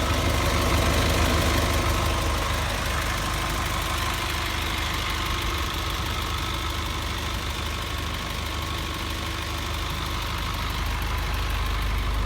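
Box truck engine idling steadily, a continuous low rumble.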